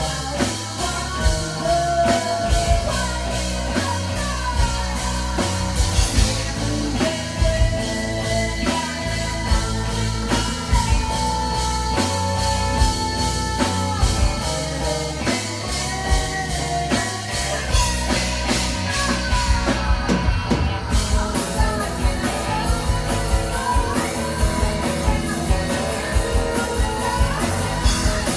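Live rock band playing a song: drum kit, bass and electric guitar with sung vocals.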